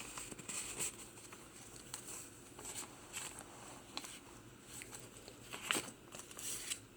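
Soft rustling and light taps of paper pages and cardstock tags in a handmade journal being turned and handled, with a slightly sharper tick a little before the end.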